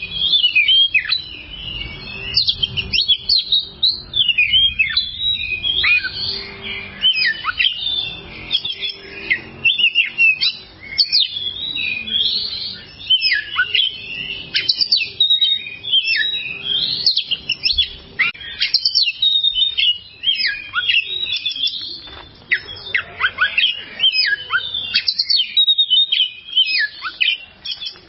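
Oriental magpie-robin (kacer) singing a long, unbroken song of quick, varied whistles, chirps and short trills.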